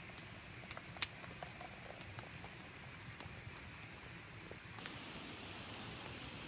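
Steady light rain pattering, with a few sharp drip ticks near the start.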